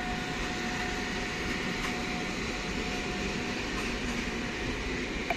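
PKP Intercity passenger coaches pulling out along a far station track: a steady rolling noise with a faint held whine. A short knock comes near the end.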